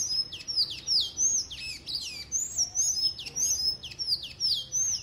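Birds singing: a quick series of high chirps, each sliding down in pitch, about three a second.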